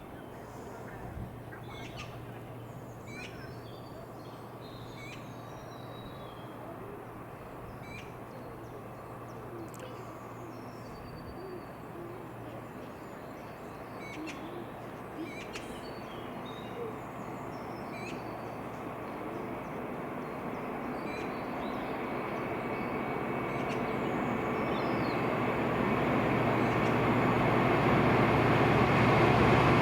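Birds chirping over a steady low hum, then an approaching freight train rising steadily in loudness through the last ten seconds or so, a deepening rumble with a low engine note.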